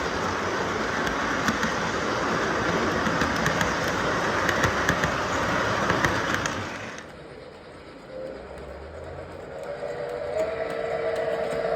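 MTH O-gauge model of the C&O 2716 Berkshire steam locomotive running on track, a steady rumbling clatter of wheels on rail with small clicks. About seven seconds in the running noise drops away suddenly. Near the end a steady chord of several tones, the model's whistle, sounds.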